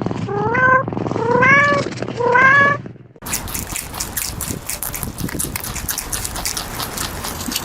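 A cat meowing three times, each meow short and rising in pitch. About three seconds in, the meows cut off and a steady crackling noise with many small clicks takes over.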